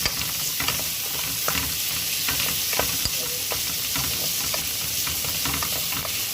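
Sliced onion, garlic, ginger and green chilies sizzling in hot oil in a pan: a steady frying hiss broken by irregular clicks and scrapes of a utensil against the pan as they are stirred.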